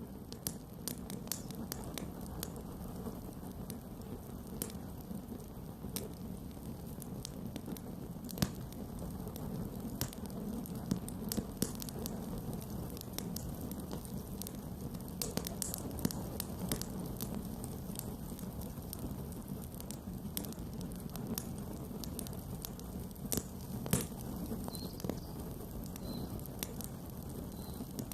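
Campfire burning: a steady low rush of flame under irregular sharp wood crackles and pops, a few of them louder.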